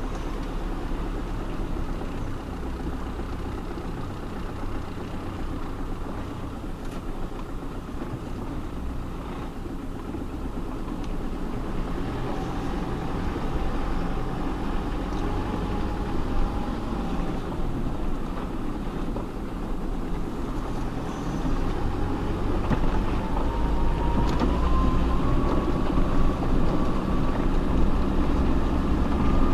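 Off-road vehicle's engine held at idle throttle, running steadily. The engine note grows slowly louder, and a thin whine climbs in pitch over the second half.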